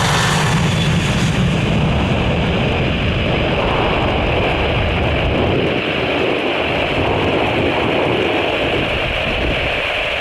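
Large jet aircraft's engines running loud and steady, a broad rushing noise with a high hiss that fades about two seconds in.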